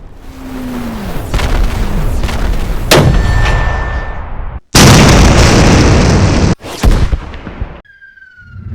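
A string of separate explosion sound effects, back to back: rumbling blasts, one heavy hit about three seconds in and a long loud one that cuts off suddenly. Near the end comes a short falling whistle like an incoming bomb or shell.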